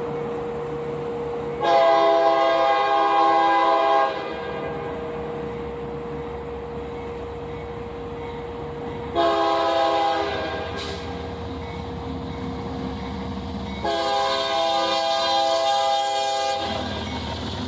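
Locomotive air horn sounding a chord in three blasts, long, short, long, over the steady low rumble of the passing train.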